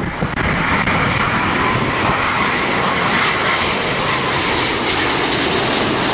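Fixed-wing aircraft engines running loud and steady, a dense rushing noise with a faint whine, and wind buffeting the microphone.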